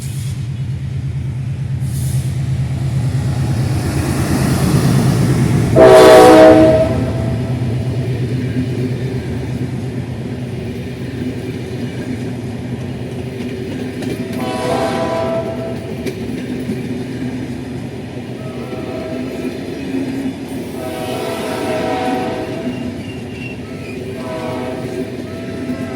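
General Electric diesel locomotive running with a steady low engine rumble and sounding its horn: one loud blast about six seconds in, then quieter blasts around the middle and twice more towards the end.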